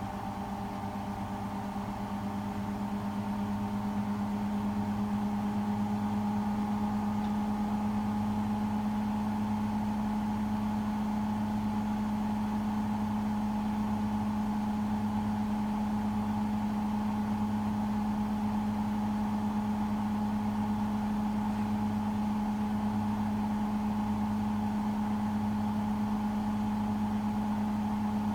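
Hotpoint WMFUG 942 washing machine in its intermediate spin: the drum spinning at a steady speed with a constant motor hum and whine, growing louder over the first few seconds and then holding level.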